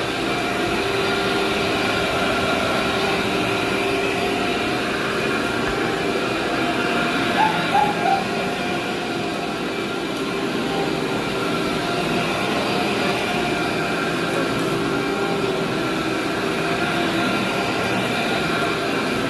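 Vacuum cleaner running steadily on carpet, a constant motor whine and hum, with three short high chirps about eight seconds in.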